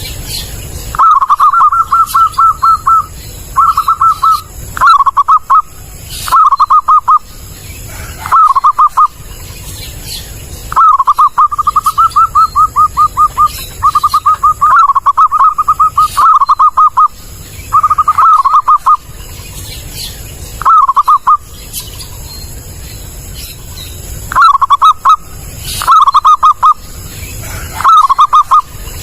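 Zebra dove (perkutut) cooing: loud trilled phrases of rapid pulses, repeated again and again with short gaps, some brief and a couple running on for two to three seconds.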